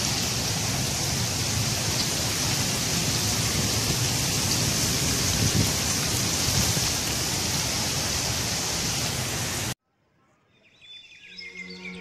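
Steady rain falling, a constant dense hiss. It cuts off abruptly near the end, and music fades in a second later.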